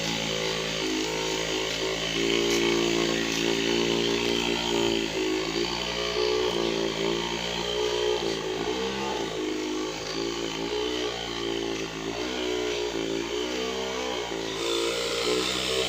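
Motorcycle engine running, its pitch rising and falling as the throttle opens and closes.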